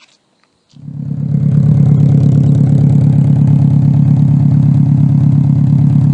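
Subaru Impreza WRX STI flat-four engine idling through a Blitz Nur Spec R cat-back exhaust. It comes in loud under a second in, then holds a steady, deep idle.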